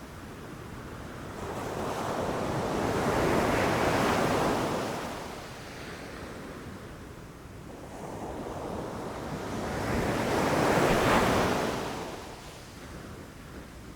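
Ocean waves rushing and crashing: two waves about seven seconds apart, each building to a loud wash and then fading back.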